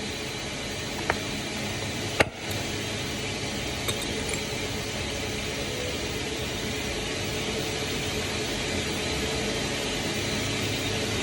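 CNC machine running with a steady noise and a faint even hum, broken by a few sharp clicks, the loudest about two seconds in.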